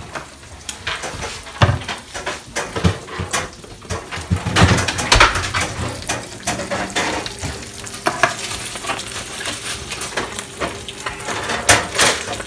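Eggs sizzling steadily as they fry in a skillet, with scattered clinks and knocks of pans, utensils and salt and pepper shakers being handled.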